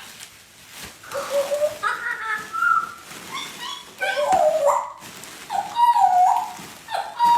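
A parrot calling: a series of short, pitched, whistle-like calls that slide up and down, about five of them, louder from about four seconds in.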